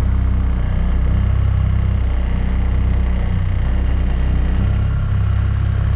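Small outboard kicker motor running steadily at trolling speed, a constant low rumble.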